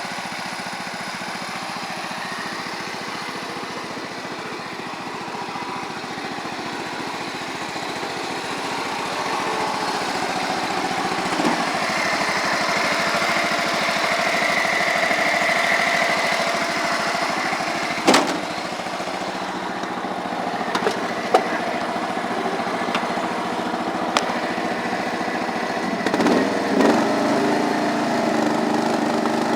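John Deere 325 lawn tractor's 17 hp Kawasaki overhead-valve engine running steadily, with a sharp knock about two-thirds of the way through and a few lighter clicks after it. The engine note shifts near the end.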